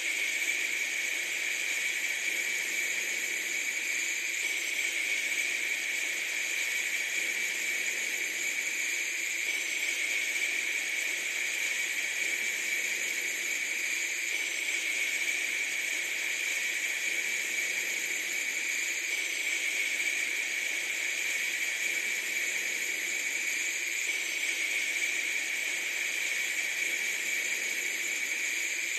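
A steady, unchanging hiss, brightest in the upper middle and thin in the low end.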